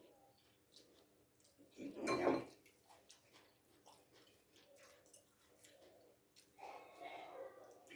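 Faint eating sounds: chewing with scattered small clicks. There is a short louder sound about two seconds in and another near the end.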